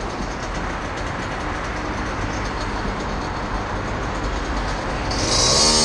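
Two-stroke dirt bike engine running at idle, a steady rough noise. About five seconds in it gets louder with a rising, higher pitch as the throttle is opened.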